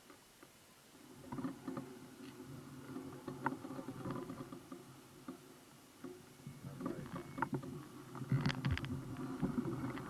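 Rumble and scattered rattling knocks of a moving bike, picked up by a camera mounted on it, with a burst of sharper clattering from about seven seconds in.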